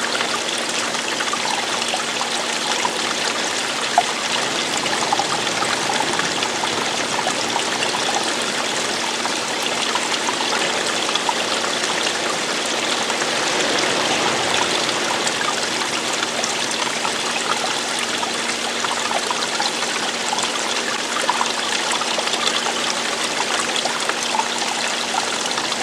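Running water falling and flowing steadily, like a stream, with a continuous rush and small trickling splashes throughout.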